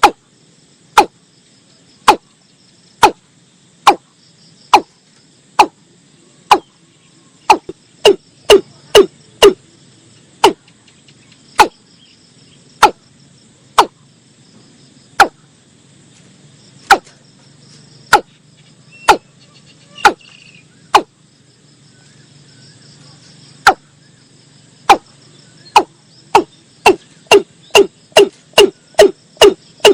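Watercock calling: short, sharp notes that fall in pitch, about one a second, twice speeding up into quick runs, around eight seconds in and again near the end. A steady insect hum lies under the calls.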